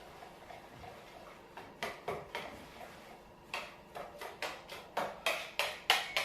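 A utensil clicking against a mixing bowl as pancake batter is stirred: a few scattered taps, then a steady run of about three to four strokes a second that grows louder in the second half.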